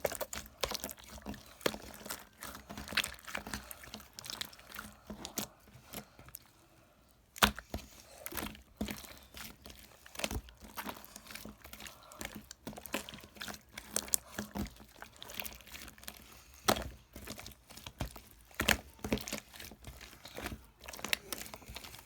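Irregular small taps, clicks and rustles of objects being handled close to the microphone, with a short lull about six seconds in.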